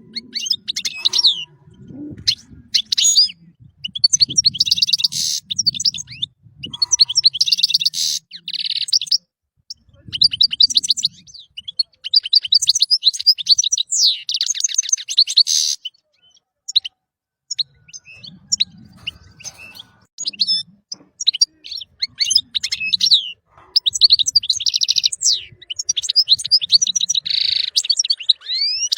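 European goldfinch singing: rapid, high, twittering phrases of trills and buzzy notes, broken by short pauses.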